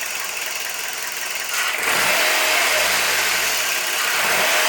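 Turbocharged Toyota Vitz engine running, with molybdenum disulfide additive in its oil; the noise steps up about two seconds in and then holds.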